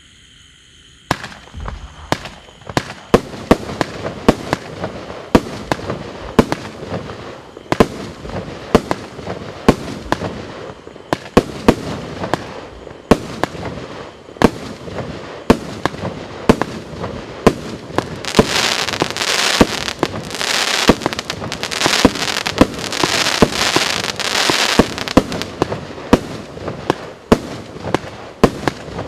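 A 49-shot, 25 mm firework cake firing in quick succession: the first shot comes about a second in, then sharp bangs follow one after another, roughly one to two a second, over a constant crackle. For several seconds about two-thirds of the way through, a thick crackling hiss of crackling-star effects swells up under the shots.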